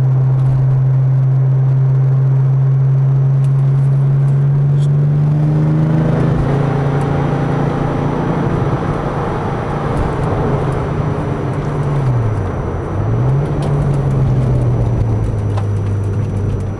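Porsche 996 Turbo S twin-turbo flat-six with a Switzer exhaust, heard from inside the cabin. It holds a steady cruise at about 2500 rpm with no exhaust drone, then pulls harder and its pitch rises about six seconds in. Engine speed dips briefly and recovers a little past twelve seconds in, then it settles back to a steady cruise.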